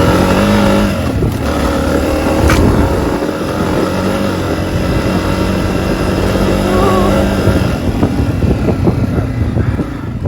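Honda CRF250F's single-cylinder four-stroke engine running as the dirt bike is ridden, the revs holding, dropping and picking up again with the throttle. Near the end it goes lower and choppier.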